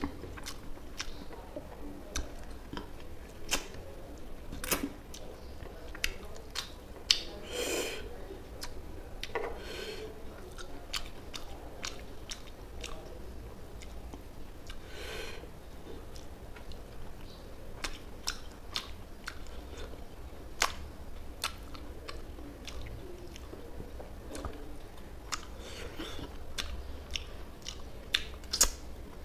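Close-miked person chewing and biting a by-hand meal of rice and mustard-sauced telkoi (climbing perch) fish curry: irregular mouth clicks and crunches, with a few longer, noisier smacking sounds.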